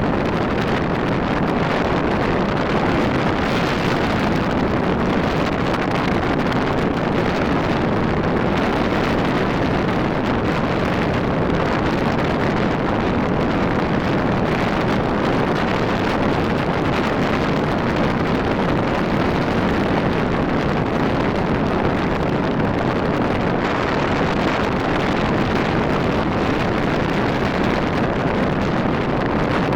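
Steady wind rush on the microphone of a moving motorcycle, a Rusi RFI 175, with road and running noise underneath and no breaks.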